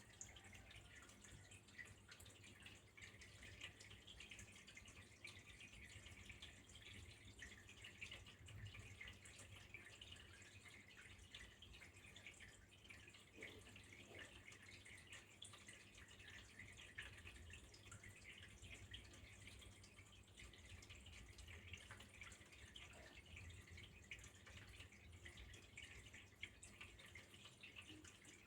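Faint, steady trickle of flowing water, a dense patter of small splashes with a low hum underneath.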